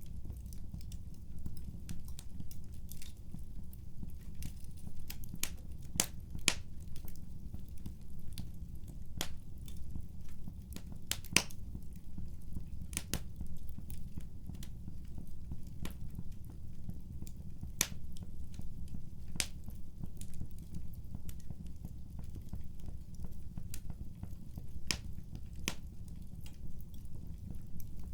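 Wood fire crackling: irregular sharp pops and snaps, a few louder ones, over a steady low rumble of the fire.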